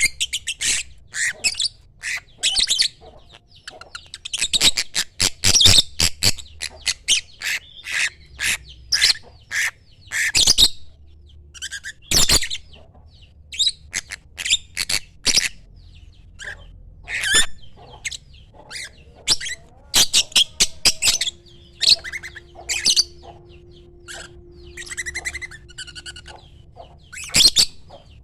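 Lovebird calling: a rapid string of shrill chirps and squawks, short calls one after another with brief pauses between runs.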